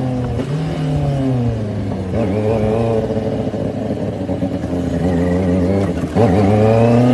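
Motorcycle engine revving, its pitch falling and rising several times, with a louder, higher rev about six seconds in.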